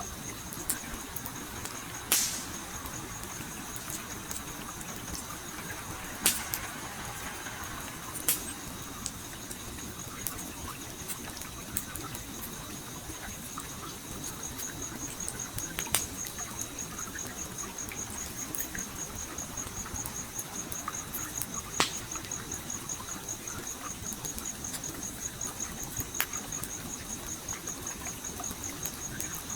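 Wood fire crackling, with sharp pops every few seconds over the steady rush of flowing stream water. An insect's steady, high-pitched, rapidly pulsing trill runs throughout.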